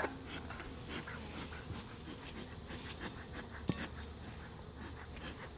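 A bee smoker's bellows giving a few breathy puffs of air, over the buzzing of honeybees at an open hive, smoking the bees to calm them.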